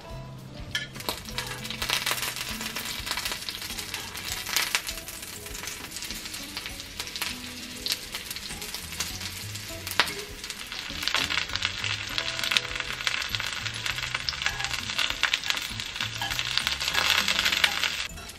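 Egg-battered stuffed green chili peppers (gochujeon) sizzling and crackling in shallow oil in a flat frying pan, with scattered sharp pops. The sizzle swells louder near the end.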